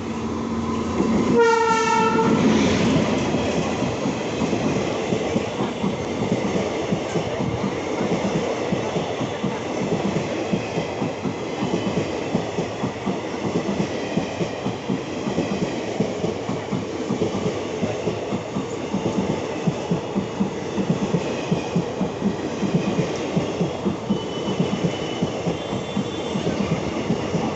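An express train passing through at speed: the locomotive's horn sounds once briefly, about a second in. Then the coaches run by with a continuous rumble as the wheels clatter rapidly over the rail joints.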